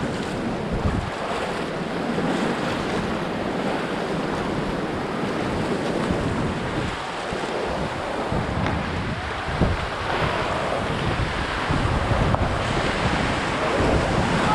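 Rushing whitewater of a Ganges river rapid under a paddled raft, a steady dense rush, with wind buffeting the microphone.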